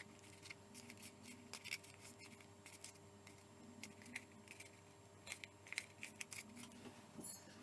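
Faint, scattered snips and crisp rustles of paper being cut with scissors and handled, over a low steady room hum.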